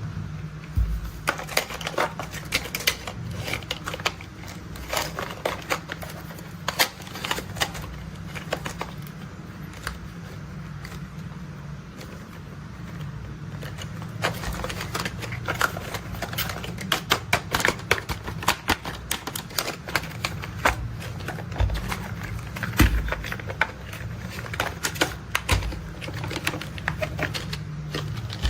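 Plastic toy construction vehicles being handled, with irregular clicks, taps and rattles of plastic parts over a steady low hum.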